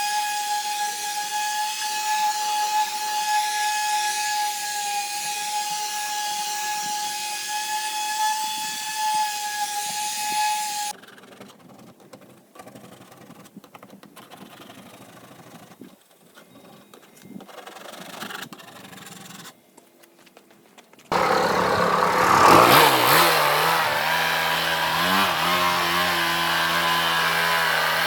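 Airless paint sprayer running with a steady motor whine for about ten seconds. It then drops to quieter, irregular sounds, and about two-thirds of the way in it starts running loud again with a shifting, engine-like pitch.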